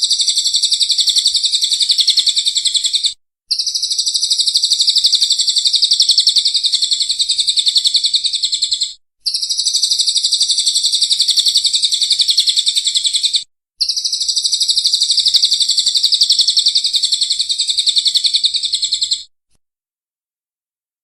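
Songbird masteran recording: a high, very rapid chattering trill of fast-repeated notes in four long bouts, each several seconds long and separated by brief abrupt breaks, stopping a little before the end.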